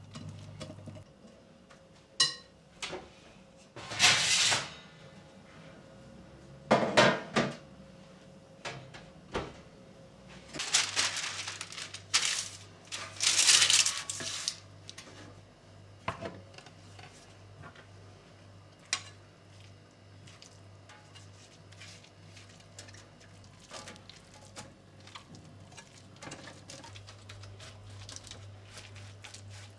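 Dishes and cutlery being handled: scattered clinks and knocks, with several longer scraping or rattling stretches in the first half. A low steady hum drops out about a second in and comes back partway through.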